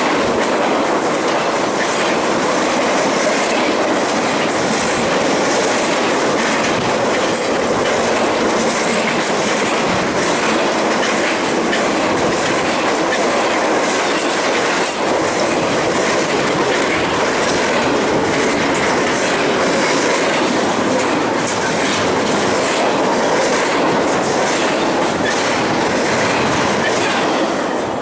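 Train cars rolling past, with the steady noise of wheels on rail and repeated clicking over the rail joints; the sound begins to fade just before the end.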